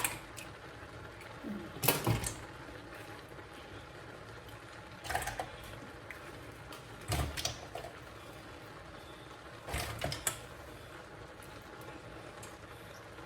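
Four short clatters of kitchen handling, spaced a few seconds apart, over a faint steady background hiss.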